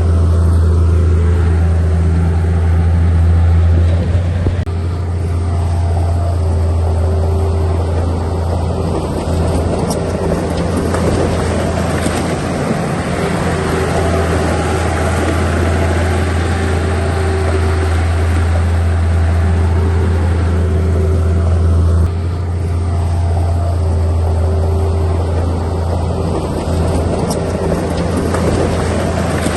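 Diesel engine of heavy earthmoving machinery running steadily with a strong low hum, its note shifting about four seconds in and again near the twenty-two-second mark.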